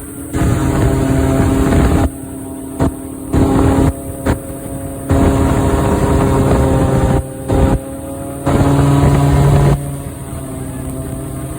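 Airboat's engine and propeller running loud and steady, the level surging up and down every second or two.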